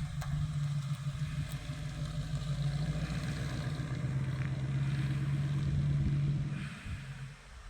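A car engine running at low, steady revs as the car rolls slowly in, dropping slightly in pitch midway and fading away near the end.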